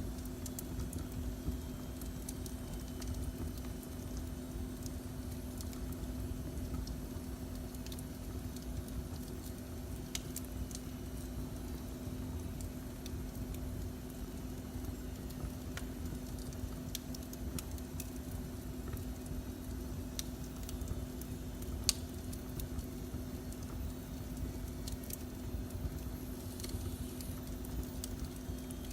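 Fireplace fire crackling with scattered sharp pops, the loudest about two-thirds of the way through, over a steady low rumble and hum.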